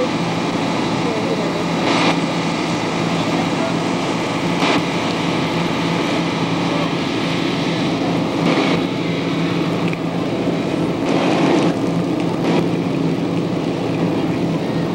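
Steady low mechanical hum from a stopped passenger train standing at the platform, under the talk of a crowd of passengers, with a few short knocks.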